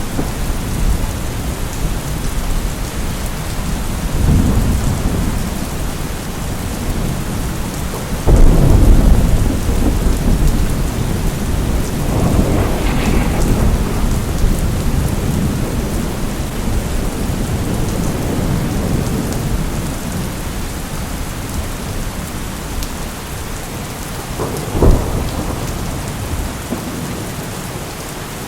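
Steady heavy rain with rolling thunder: a loud rumble breaks in about eight seconds in and slowly dies away, with a sharper, shorter crack of thunder near the end.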